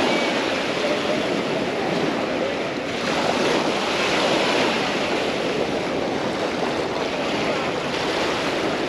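Surf washing up on a sandy beach: a steady rush of small waves, swelling a little about halfway through.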